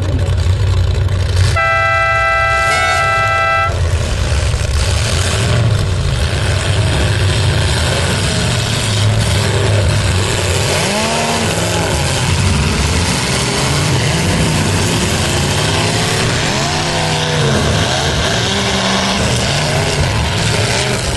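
Full-size demolition derby cars' engines running loudly, revving up and down repeatedly in the second half. A horn blasts for about two seconds near the start.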